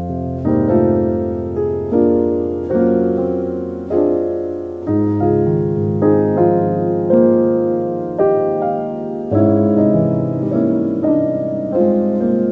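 Slow, gentle solo piano music: soft chords and melody notes struck about once or twice a second over sustained bass notes that change twice.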